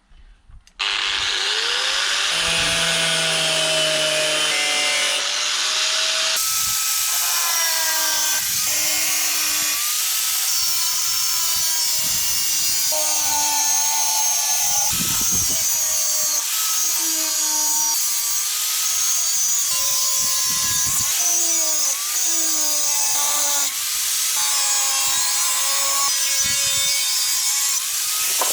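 Power tool cutting a replacement floor panel out of sheet steel. Its motor runs loud and continuously, with a whine that sags and recovers in pitch as the blade or disc loads in the cut.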